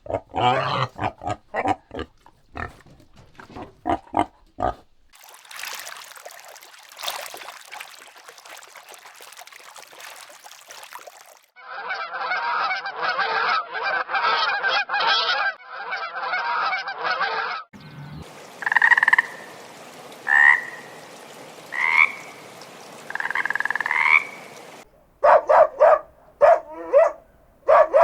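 A run of different animal calls, one after another: quick pulsed calls, then a hiss, then a dense croaking chorus, then short rising calls, and quick pulsed calls again near the end.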